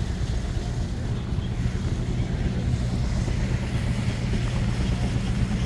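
An engine running steadily, a continuous low rumble that neither rises nor falls.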